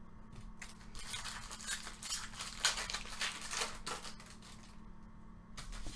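Trading cards being handled and slid across one another: a run of quick scraping and flicking strokes for about three seconds, then a few faint clicks.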